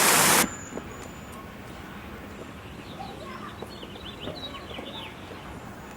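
Rushing of a garden waterfall cuts off abruptly about half a second in. It leaves quiet outdoor background with a low traffic hum and a bird chirping a few seconds later.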